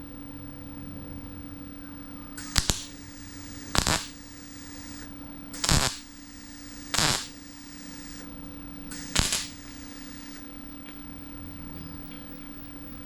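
MIG welder putting five short tack welds into a thin sheet-steel fender patch. Each tack is a brief crackling burst, one to two seconds apart, over a steady low hum. The tacks are spaced out to keep heat low and stop the panel oil-canning.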